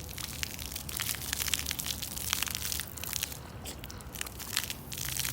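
Irregular crunching and crackling made of many quick sharp clicks, over a faint steady low hum.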